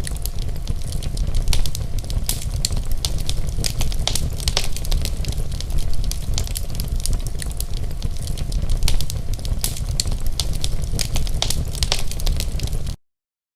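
Wood campfire burning, with frequent sharp irregular crackles and pops over a steady low rumble; it cuts off suddenly near the end.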